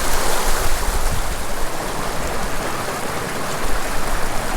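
Small mountain creek flowing steadily over rocks, a continuous rushing of water.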